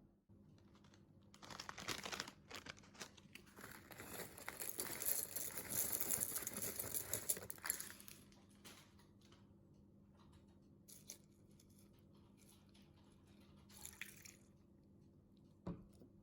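Crinkling and rustling of packaging, paper or plastic, handled and torn for several seconds, then a few brief rustles and a click in a quiet room.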